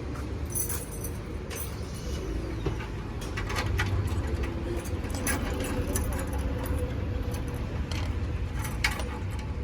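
Steady low hum of a vehicle, with light clicks and metallic jingles scattered through it.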